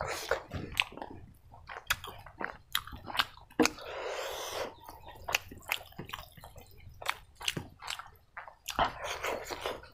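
Close-miked wet chewing and lip smacking of a mouthful of rice and pork curry, with quick sharp clicks throughout. About four seconds in comes a longer squelching as a curry-soaked handful of rice is squeezed in the hand.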